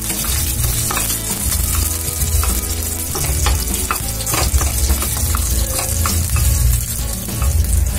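Green chillies and curry leaves sizzling in hot oil with mustard seeds in a nonstick frying pan, stirred with a spatula, with scattered crackles and pops.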